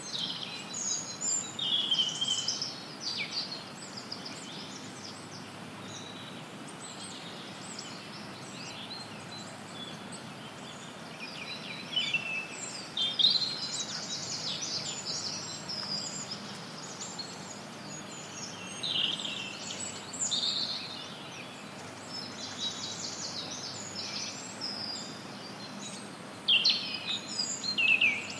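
Songbirds chirping and trilling in scattered bouts over a steady bed of white noise. Several high, quick calls overlap at times, loudest just after the start, midway and near the end.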